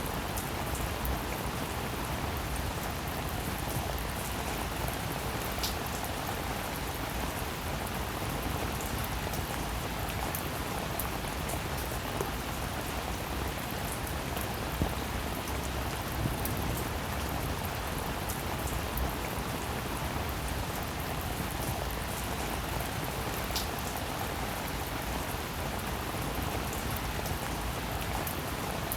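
Steady rain falling, a dense even patter of drops, with a few single louder drops standing out now and then.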